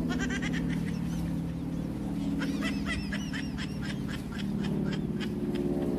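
Birds calling in quick chattering bursts of high, arching notes, one at the start and a longer run a couple of seconds in, over a steady low drone.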